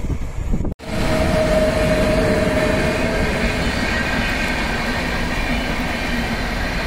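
Indian Railways express train passing close at high speed: a loud, steady rush of wheels on rail and coach noise. There is a brief break in the sound under a second in.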